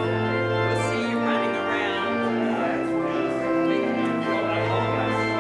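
Organ music: sustained chords over held bass notes that change every second or two.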